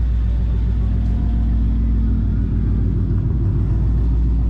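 Drag car engine idling loudly and steadily.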